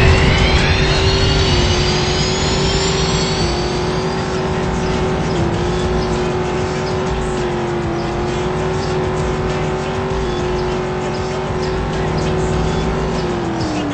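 Car engine held at high revs while it spins donuts, tyres squealing with a high sound that rises in pitch over the first few seconds. The revs drop near the end.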